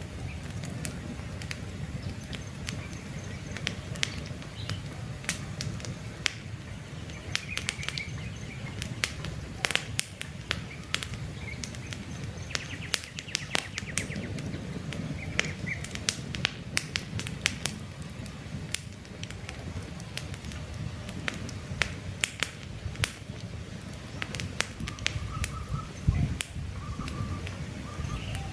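Campfire burning, crackling with frequent sharp pops over a steady low rush of the flames. Birds chirp briefly now and then in the background.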